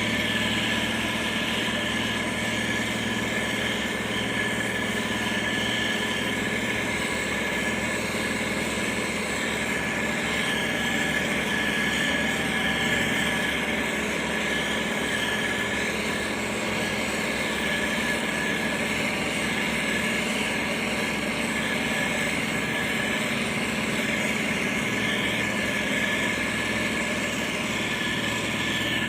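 Diesel engine of heavy road-building machinery, a motor grader or road roller, running steadily with an even, unchanging hum and a few held tones.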